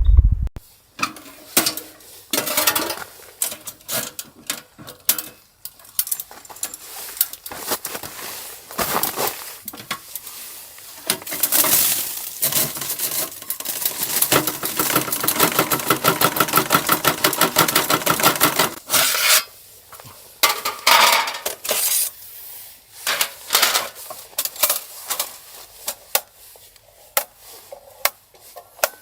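Metal cookware and utensils clinking and scraping, with a run of quick, even strokes lasting about five seconds in the middle.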